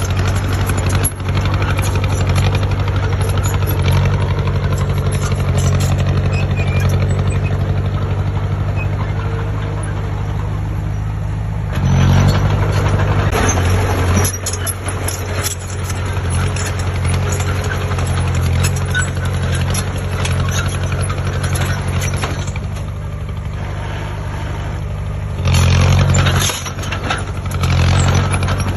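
Heavy diesel engine of construction machinery running steadily, revving up for a couple of seconds about twelve seconds in and twice more near the end.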